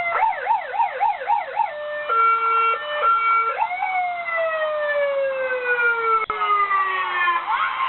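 Fire engine siren run through its tones: a fast rising-and-falling yelp for about two seconds, then a hi-lo two-tone, then a single tone that jumps up and glides slowly down over about four seconds.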